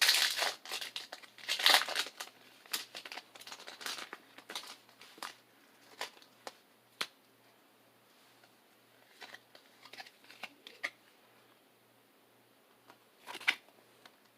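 Foil wrapper of a Pokémon card booster pack crinkling and tearing as it is opened, loudest in the first two seconds. Scattered light rustles and taps follow, with one more short crinkle near the end.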